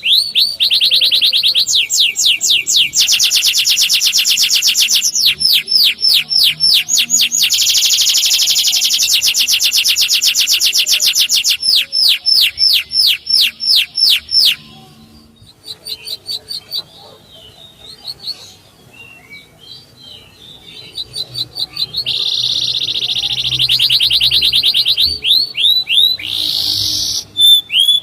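Male canary singing: runs of sharp, rising 'cuit' whistles, about four a second, alternating with dense rolling trills. Partway through, the song breaks into a quieter stretch of scattered notes before the loud runs resume.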